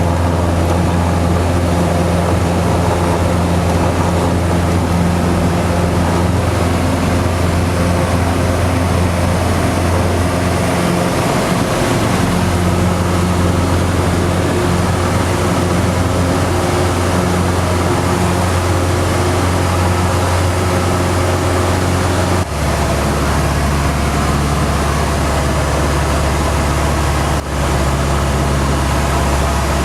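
Cessna 150's four-cylinder Continental O-200 engine and propeller droning steadily in cruise, heard from inside the cabin. About three-quarters of the way through, the pitch drops slightly and suddenly.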